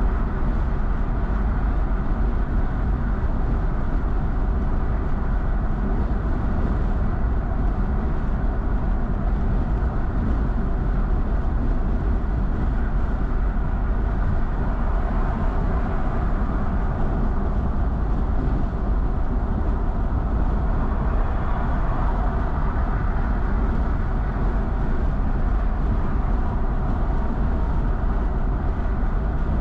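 Steady road noise of a car cruising at highway speed: an even rumble of tyres and engine that does not change.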